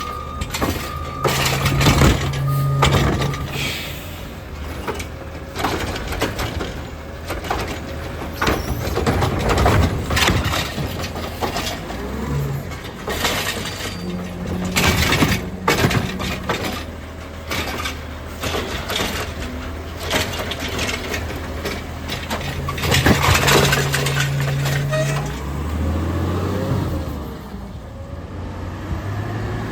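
Heil Rapid Rail automated side-loading garbage truck working carts: its engine running, with a hum that rises in three spells as the hydraulic arm cycles, and carts and trash clattering and banging. A backup beeper sounds for the first few seconds.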